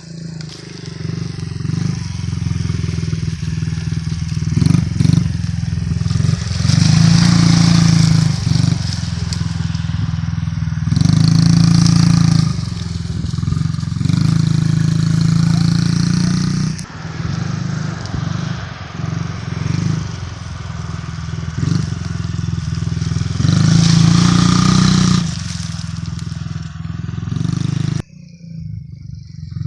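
Honda CRF50 dirt bike's small four-stroke single-cylinder engine running, revved in several louder surges between steadier stretches, dropping briefly near the end.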